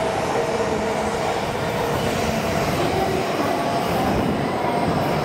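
E926 East-i inspection Shinkansen running at low speed, wheels rumbling on the rails under a steady electric whine from its GTO-VVVF inverter traction drive.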